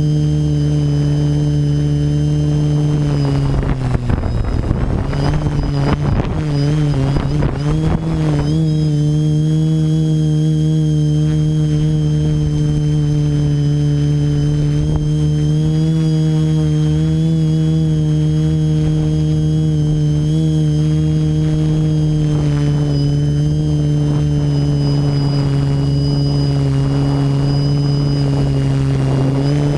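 TBS Discovery quadcopter's electric motors and propellers whining in flight. From about 4 to 8 seconds in, the pitch wavers up and down as the motor speeds change; then it settles into a steady drone.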